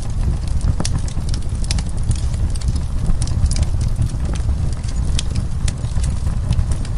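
Wood fire burning in a fireplace, crackling and popping with many irregular sharp snaps over a steady low rumble.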